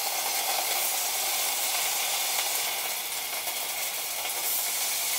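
Steady sizzling of chopped onion frying in the hot pots of two electric multicookers in sauté mode, as soy sauce is poured into them.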